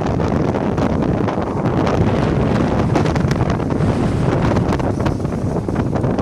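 Wind buffeting the microphone on a beach: a loud, steady rush of wind noise, with ocean surf beneath it.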